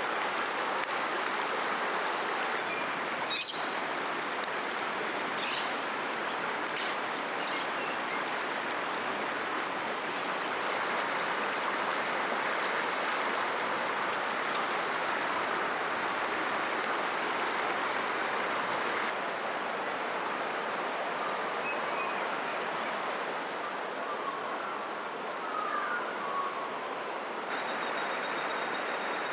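Steady rush of river water flowing over rocks, with small birds chirping now and then above it.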